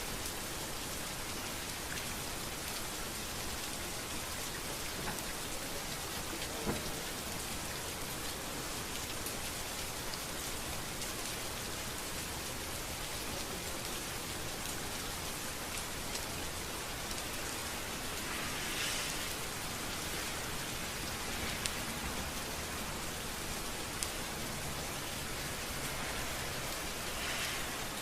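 Steady rain falling on a street, an even hiss with scattered sharper drop ticks and a couple of brief louder swells.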